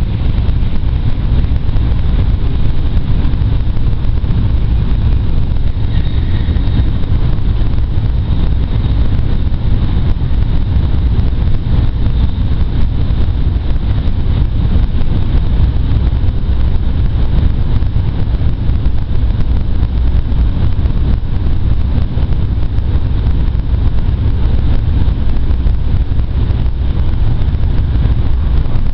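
Steady low rumble inside the cabin of a Shinkansen train running at speed on an elevated track, with no change in level.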